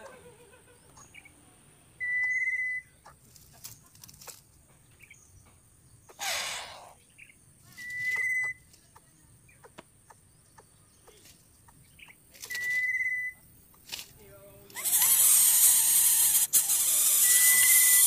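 A bird giving a short, steady, high whistled note four times, about every four to five seconds. A brief rush of noise comes about six seconds in, and a loud hiss, louder than the whistles, takes over for the last three seconds.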